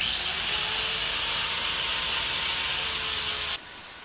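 Angle grinder with a 120-grit flap disc grinding the steel top of a railroad rail: a high whine that rises at first, then holds steady over a loud rasping noise, and stops abruptly about three and a half seconds in. The rail steel is a little hard for this disc.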